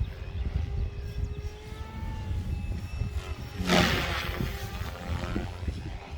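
Wind buffeting the microphone, with the faint whine of a small electric RC helicopter's motor and rotors in flight. A brief, louder rushing sound comes about three and a half seconds in.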